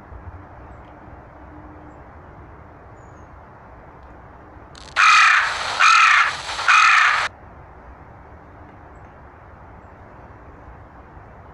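A crow cawing loudly three times in quick succession, each caw a harsh call of under a second.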